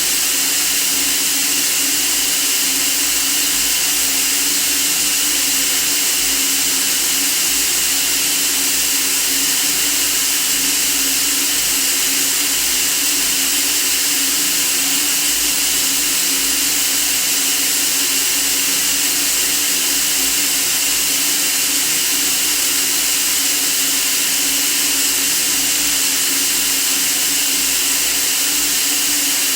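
Steady white noise: a bright, even hiss that does not change.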